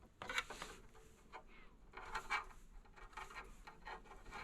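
Small electrical wires being handled and twisted together while tapping into a SATA power cable: irregular light rubbing and scratching of wire and plastic insulation, with a few faint clicks.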